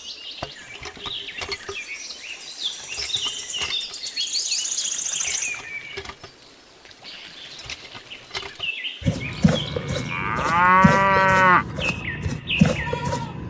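Birds chirping and trilling for the first several seconds, then a cow moos once, a long call of about a second and a half, over a low rural background.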